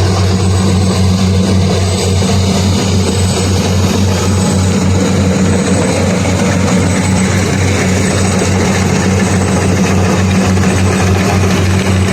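Kubota combine harvester's diesel engine and threshing machinery running steadily with a constant low hum.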